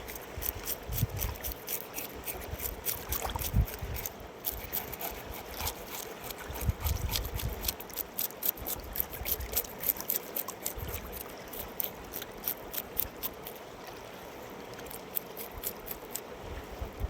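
Mountain river water running and trickling, with rapid fine splashing and occasional gusts of wind buffeting the microphone.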